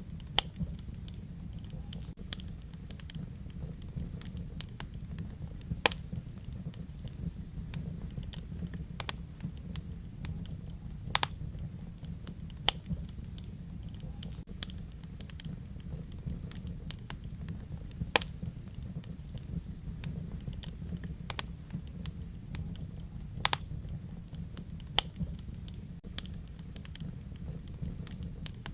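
Wood fire in a fireplace crackling: a steady low rumble of the flames with frequent sharp pops and snaps at irregular intervals, a few of them much louder than the rest.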